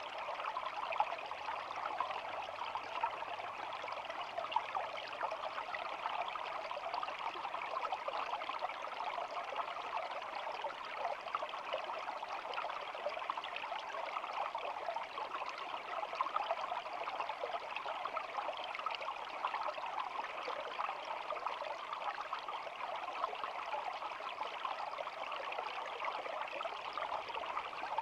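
Small shallow stream flowing and babbling steadily over stones, an even trickling rush of water.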